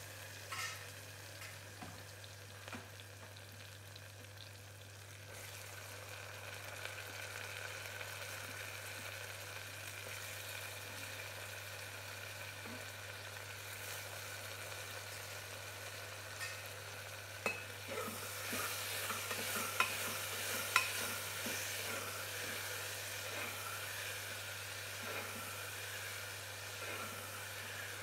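Chopped onions and tomatoes sizzling in hot oil in an aluminium pressure cooker, stirred with a spoon that scrapes and clinks against the pot now and then. The sizzle grows louder about two-thirds of the way through, and a steady low hum runs underneath.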